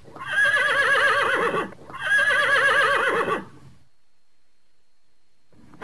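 A horse whinnying twice: two long neighs of about a second and a half each, with a quavering, wavering pitch.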